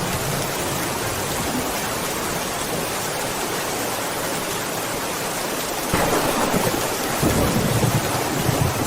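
Steady heavy rain hissing, and about six seconds in a low rumble of thunder comes in suddenly and keeps rolling.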